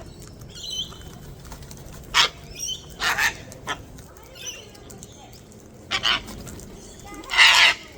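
Wild cockatoos screeching: four short, harsh screeches, the last and loudest near the end, with fainter chirps from other birds in between.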